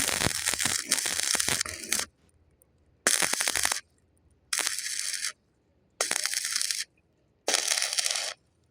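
Stick-welding arc crackling and sizzling in five bursts: one of about two seconds, then four short ones of under a second each, with quiet gaps between. The arc is struck and broken each time, as in a run of short welds.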